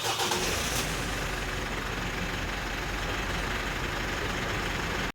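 Car engine idling steadily, a low hum under an even mechanical noise.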